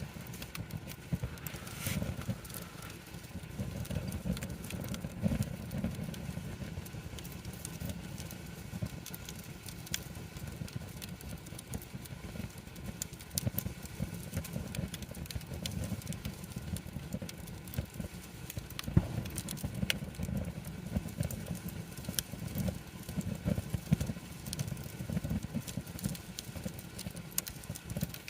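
Wood campfire burning: irregular crackles and sharp snaps over a steady low rumble.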